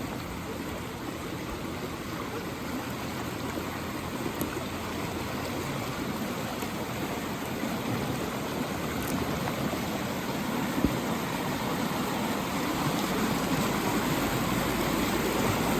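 Rain-swollen creek rushing fast, a steady noise of running water that grows louder over the stretch.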